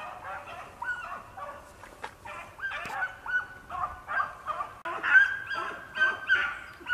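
Two hunting dogs baying in chase, a string of short overlapping bays, loudest about five seconds in: the dogs are running a rabbit's trail.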